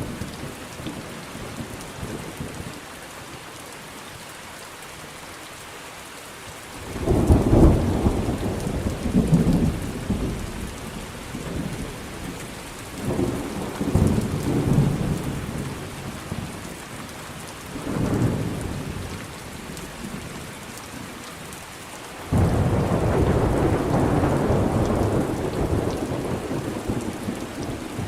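Steady rain falling, with rolling thunder: a first long rumble about a quarter of the way in, further rumbles after it, and a sudden loud crack near the end that rolls on.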